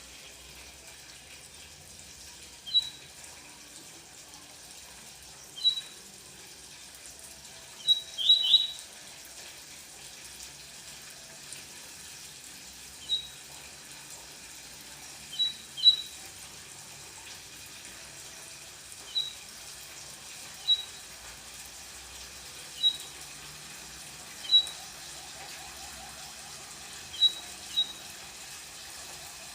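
Small songbird giving single short, high chirps every few seconds, about a dozen in all, with a quick burst of several notes about eight seconds in, over a faint steady hiss.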